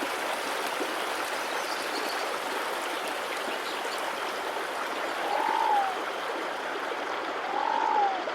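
A stream running steadily. Two short calls, each rising and then falling in pitch, come through it about five and seven and a half seconds in.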